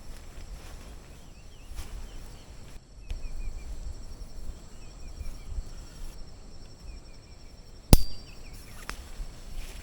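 Outdoor forest ambience: small birds give short series of falling chirps several times over a low wind rumble, with a steady thin high insect tone. A single sharp click about eight seconds in is the loudest sound.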